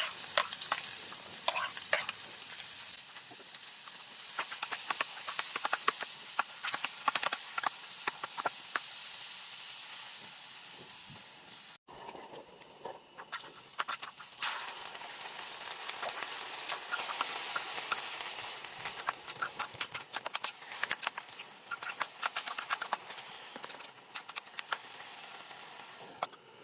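Food frying in a hot pan: a steady sizzle full of quick crackles and pops, cut off for an instant about twelve seconds in before it carries on.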